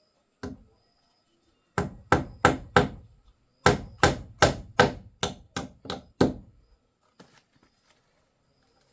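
A run of sharp, loud blows, like chopping or hammering: one single blow, then four at about three a second, then about ten more in quicker succession, fading to a few faint knocks.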